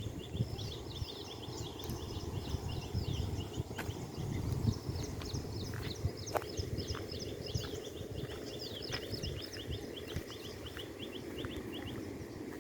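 Many small birds chirping in quick runs of short, high notes, over a steady low rumble.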